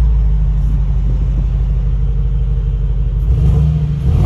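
2021 Mercedes-AMG G-Wagon's V8 engine and exhaust running with a steady, deep rumble.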